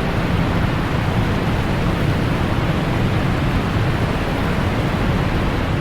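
Trümmelbach Falls' glacier meltwater crashing through the rock gorge inside the mountain: a loud, steady rush of water, heaviest in the deep low end, resonating off the rock like many drums beating at once.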